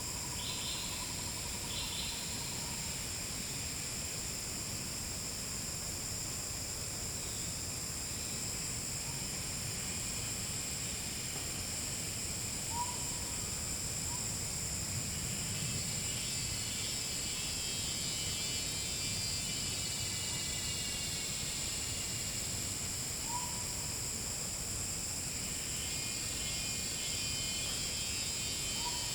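A forest insect chorus: several insects keep up a steady high-pitched buzzing, and a second, pulsing insect sound joins about halfway through. Over it a short rising call, likely a bird, sounds three times, roughly every ten seconds.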